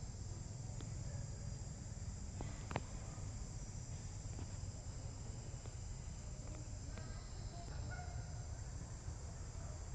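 Steady high-pitched insect chorus over a low rumble, with a few faint chirps and one sharp click a little under three seconds in.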